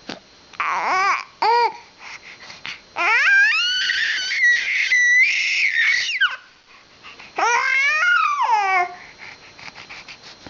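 High-pitched squealing in three bouts: short arching squeaks about a second in, a long squeal in the middle that holds one note for a while, and a falling squeal later on.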